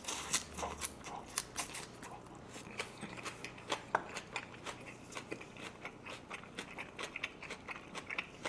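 Close-up mouth sounds of a person chewing a mouthful of minari (water dropwort) and grilled pork belly: many small wet clicks, smacks and crisp crunches following one another without pause.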